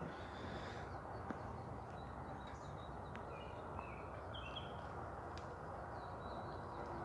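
Steady outdoor background noise with faint, brief bird chirps scattered through it.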